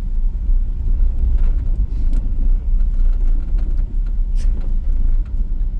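Steady low rumble with an uneven, fluctuating level.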